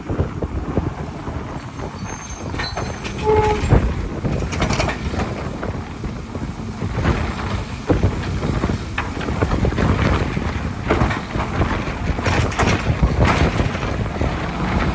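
Garbage truck running up close, its engine rumbling steadily, with several short sharp sounds over it, such as air hisses or clanks.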